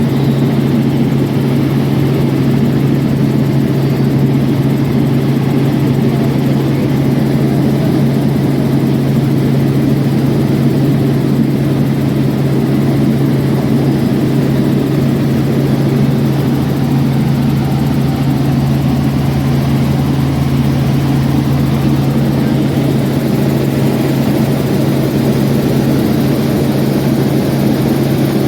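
Light aircraft engine running steadily at constant speed: a loud, even drone with a strong low hum that does not change.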